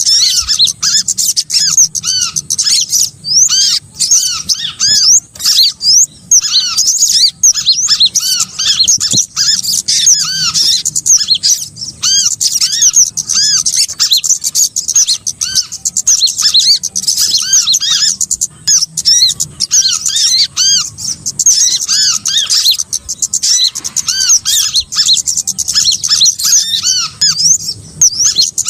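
A dense, unbroken chorus of small songbirds' calls: many short, arched chirps overlapping and repeating rapidly, mostly high-pitched with a lower row of notes beneath. It is a bird-trapping lure recording (pikatan) meant to draw in small birds.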